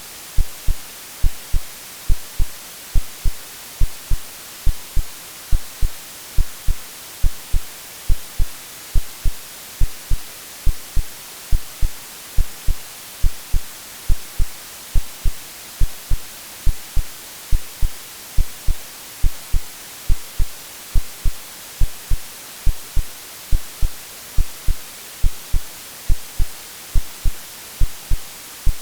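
Synthetic heartbeat, a steady low lub-dub thump a little faster than one beat a second, laid over a constant white-noise hiss: a womb-like sleep sound for soothing a baby.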